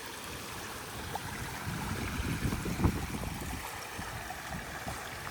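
Water flowing over a backyard pondless waterfall, a steady rushing splash, with some low uneven rumbles about two to three seconds in.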